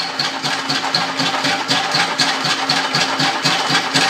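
Rockford lathe running with a single-bit fly cutter in the chuck, taking an interrupted facing cut: a steady machine hum with rapid, evenly spaced ticks, about six a second.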